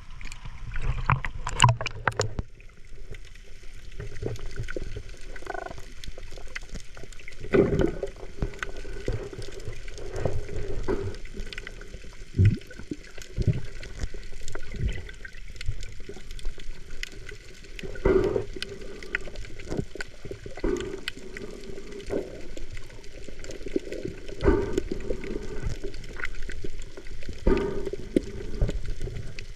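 Muffled water sloshing and bubbling with irregular knocks, picked up by a camera held underwater.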